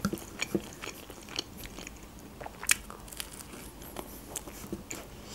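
Close-miked chewing of grilled toast: soft crunches and mouth clicks, with one sharper crunch about halfway through.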